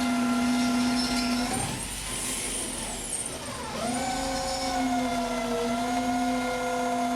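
A machine motor running with a steady whine. It cuts out about a second and a half in, then winds back up just before four seconds and runs on steadily.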